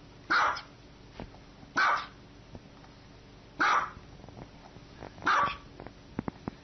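Small dog barking four times, one short, sharp bark about every one and a half to two seconds, with a few brief clicks near the end.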